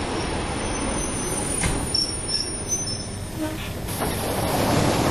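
Suburban electric commuter train rolling slowly into a station and braking, its wheels and cars rumbling steadily with a few short high squeals as it slows to a stop.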